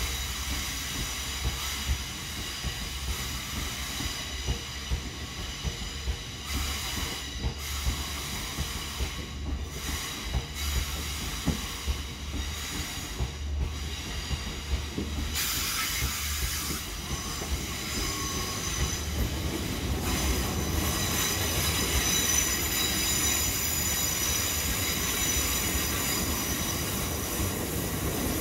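A freight train of open box wagons rolling slowly past, its wheels squealing in several high steady tones over a low rumble, with scattered clicks from the wheels on the track. The squeal grows louder about halfway through.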